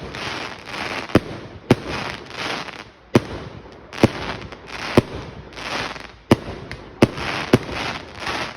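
Fireworks going off in a display: about eight sharp bangs, roughly one a second, with crackling and hissing between them.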